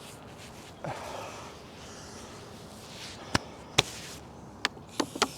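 Handling noises: a short rustle about a second in, then a few sharp clicks and knocks near the end.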